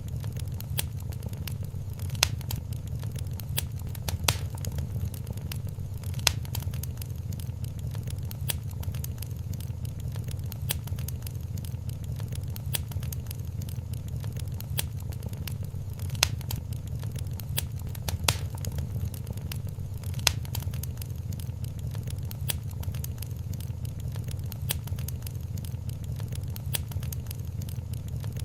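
Wood fire crackling in a fireplace: a steady low rumble of flames under constant fine crackles, with sharper, louder pops every couple of seconds.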